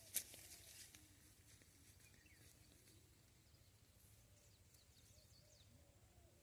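A sharp click just after the start, then near silence with faint, soft bird calls repeating in the background.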